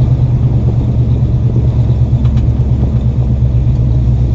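A 1978 truck's engine running steadily with a deep, even low note while driving along.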